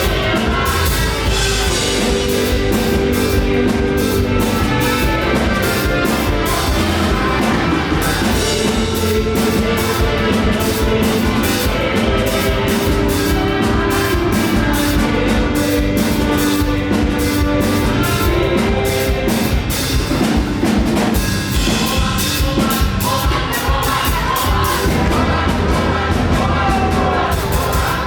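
Live up-tempo gospel praise music, a band with a drum kit playing a fast, steady beat, with singing.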